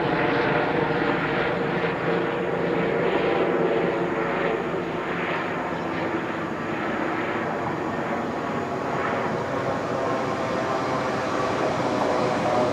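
Diesel train engines running with a steady, even hum made of several held pitches.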